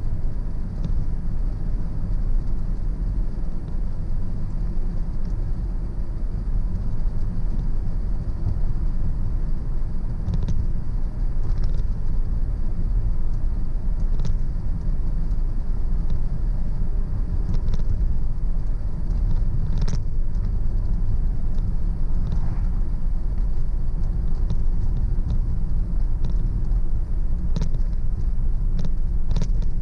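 Car driving on a road: a steady low rumble of tyres and engine, with a few short sharp clicks scattered through it.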